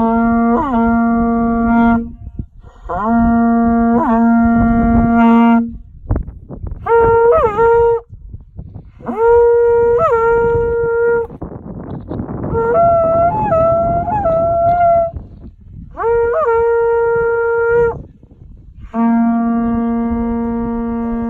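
Horagai, a Japanese conch-shell trumpet, blown in about seven long blasts with short breaths between them. Several blasts sit on a low tone and then break up an octave, with quick pitch wobbles as the notes start and end.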